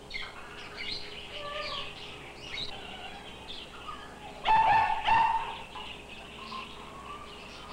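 Small birds chirping and twittering, many short quick calls, with two louder calls about four and a half and five seconds in.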